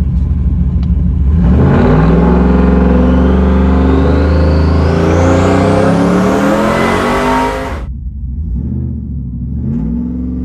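Lifted Dodge Ram 1500's Hemi V8 with a remote-mount turbo accelerating hard at full throttle, its pitch stepping up through the gears while a thin turbo whistle rises steadily in pitch. Near the end of the pull the sound drops away suddenly to a quieter engine note as the throttle comes off.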